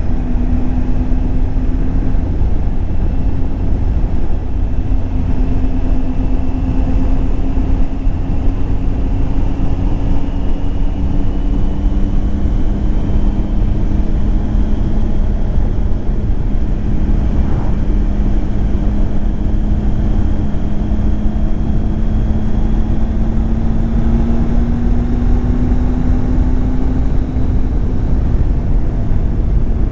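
Triumph Tiger 800 XCX motorcycle's inline-three engine running as the bike is ridden, heard over a steady low rumble. The engine note climbs slowly through the middle and drops near the end.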